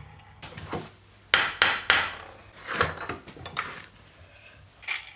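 Hand tools clinking and knocking on metal: a few sharp, separate clinks, most of them between about one and three seconds in.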